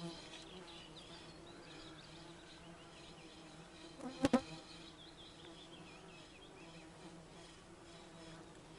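An insect buzzes steadily close by, with faint birds chirping. About halfway through, two sharp clicks come close together, the loudest sound.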